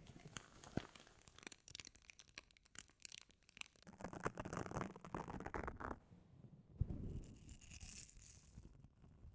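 Close-miked ASMR trigger sounds of something handled right at the microphone: a run of quick crackling clicks, then rustling and scraping, a single soft thump about seven seconds in, and a brief high hiss near the end.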